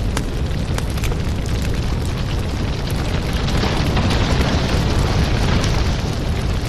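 Firewood burning: steady crackling and popping over a low rumble of flames, swelling a little louder about midway.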